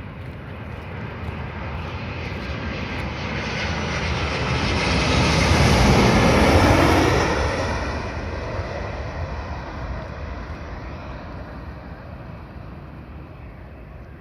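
Jet airliner on final approach to land, passing low overhead: the engine noise swells to a peak about six to seven seconds in and then fades as the plane goes by.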